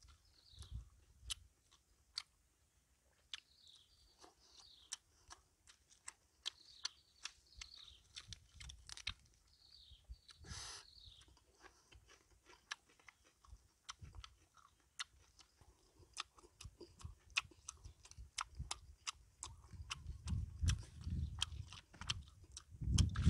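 Close-up chewing and lip-smacking of a person eating grilled fish with their fingers, with many short wet mouth clicks. The chewing grows heavier and louder in the last few seconds.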